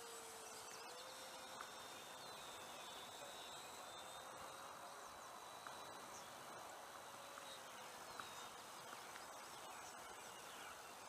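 Faint outdoor hiss with the distant, faint drone of an electric RC P-39 warbird's motor and four-blade propeller, its pitch drifting slowly up and down as it flies its circuit.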